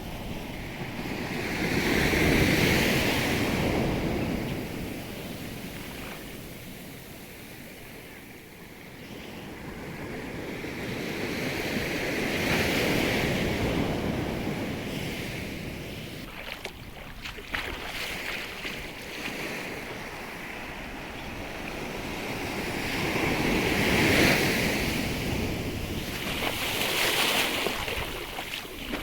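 Sea surf breaking on the shore, swelling and fading about every ten seconds. Wind buffets the microphone now and then, most around the middle.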